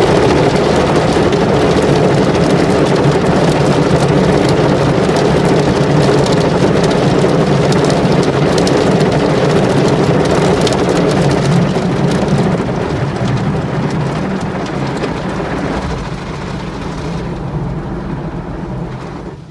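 High-pressure water jets of a touchless car wash spraying over a car, a loud steady rush like heavy rain on the body. It eases off gradually over the last several seconds, then drops away sharply at the end.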